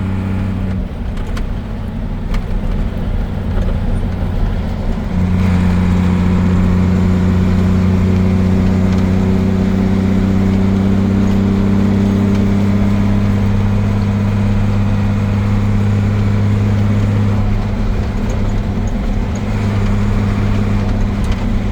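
Truck's diesel engine running steadily under way, heard from inside the cab: a low, even drone that gets louder about five seconds in and then holds.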